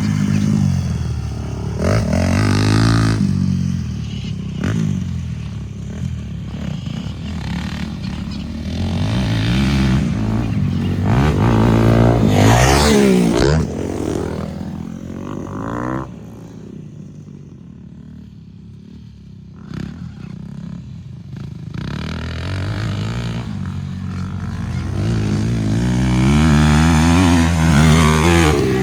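Motocross dirt bike engines revving on a track, the pitch climbing and falling in repeated swells as the bikes accelerate and pass. A little past halfway they drop to a quieter, lower note for a few seconds, then build again to a loud peak near the end.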